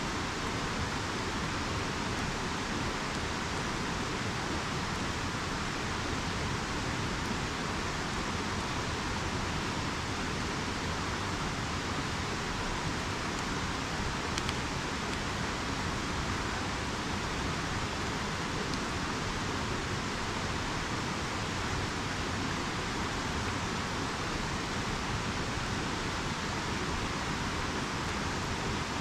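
Steady rushing of a river, with an occasional faint crackle from a wood campfire.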